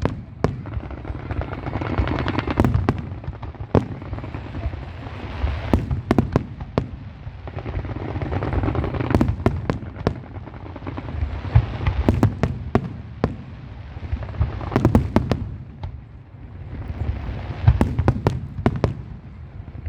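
Fireworks display: sharp bangs of bursting shells, some single and some in quick runs, over recurring swells of dense crackling.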